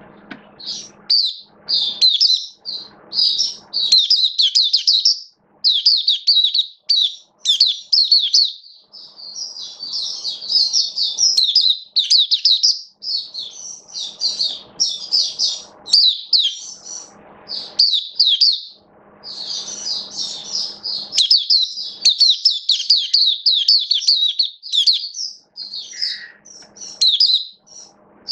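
Caged white-eye (mata puteh) singing a long run of rapid, high-pitched twittering phrases, broken only by brief pauses.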